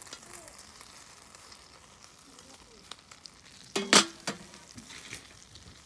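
Food sizzling as it fries in a pan over a wood fire, a faint steady hiss with small crackles. A brief loud clatter of a few sharp knocks about four seconds in.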